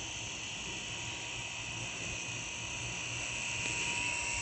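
Small RC toy helicopter's electric motor and rotors whirring steadily as it flies in the wind.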